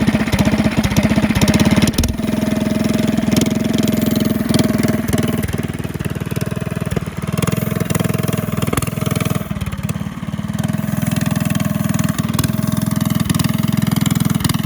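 Single-cylinder 270cc four-stroke go-kart engine running loud through a large aftermarket exhaust, its note dipping and picking back up a few times. It is slow to pick up and not running quite right, a fault later traced to a slack throttle cable giving only about 10% throttle.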